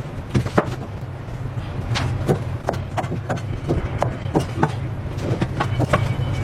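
Knife cutting fruit: irregular sharp taps and clicks, about two or three a second, over a steady low hum.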